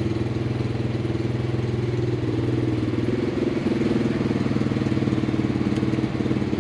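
Two small motorcycle engines, a Grom clone and a Honda Monkey, idling together while they warm up. The sound is a steady, even idle with no revving, and the Grom clone is the louder of the two.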